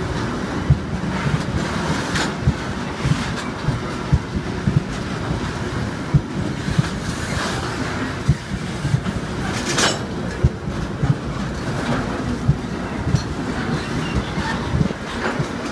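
A freight train of rail tank cars rolling past close by: a steady rumble with the wheels clacking over rail joints in an uneven run of knocks. One sharper clank comes about two-thirds of the way through.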